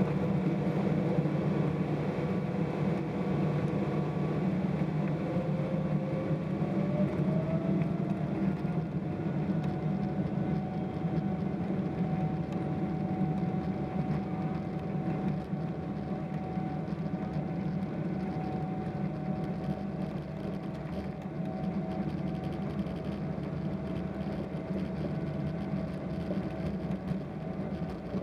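Boeing 777-300ER's GE90-115B jet engines heard from inside the cabin: a steady deep rumble with an engine whine that rises in pitch about six to eight seconds in and then holds steady.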